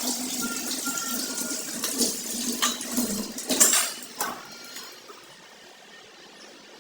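Water sloshing and splashing in a bowl, with a few sharp clicks, as a hand stirs pakhala (rice soaked in water). It dies down after about four seconds.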